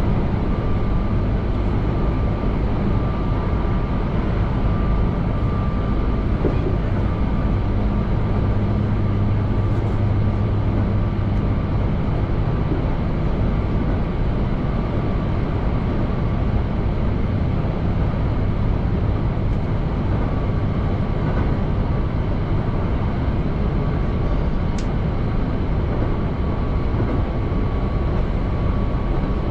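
Keihan electric limited express train running at speed, heard from inside the front cab: a steady rumble of wheels on rails with a faint steady high whine. A deeper hum in the first part fades out about twelve seconds in.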